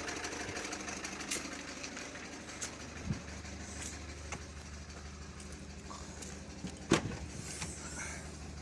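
Citroën C3's engine idling steadily, with a few scattered light clicks and one sharper knock about seven seconds in.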